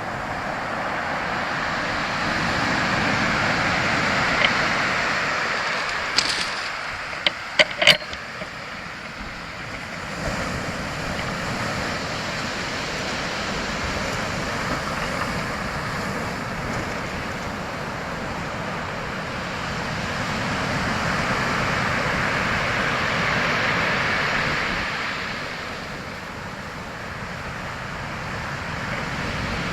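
Waves washing in, a steady rush that swells and eases twice, with a few sharp clicks about six to eight seconds in.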